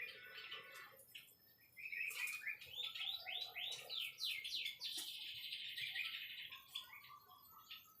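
White-rumped shama (murai batu) singing: about two seconds in, a quick run of downslurred whistled notes, followed by a rapid, dense rattling phrase that fades away near the end.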